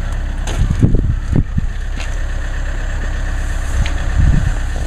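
Car engine idling steadily, with several short knocks and clicks over it.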